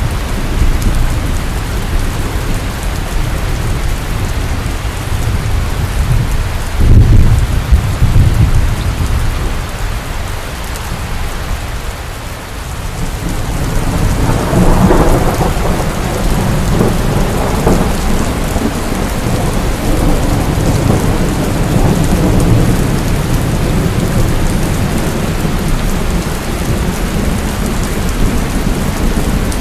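Heavy rain pouring steadily, with rolling thunder underneath. A loud rumble comes about seven seconds in, and a second long roll builds from about halfway through and carries on.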